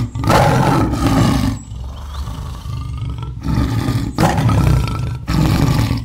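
Tiger roaring: a series of loud, deep roars with quieter growling rumbles between them.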